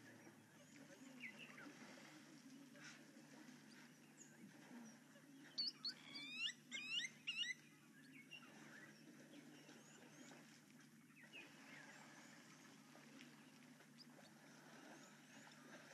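Faint bird calls over a low steady hum; about five and a half seconds in, a bird gives a loud run of quick swooping whistled notes lasting about two seconds.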